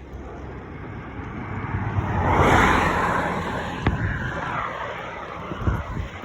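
A car passing close by: its engine and tyre noise swells to a peak about two and a half seconds in, then fades away.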